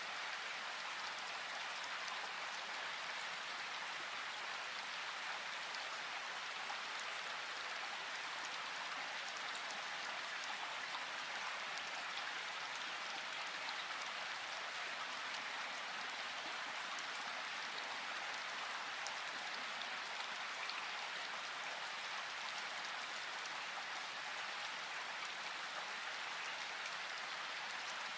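River water rushing steadily, an even hiss with faint small splashes scattered through it.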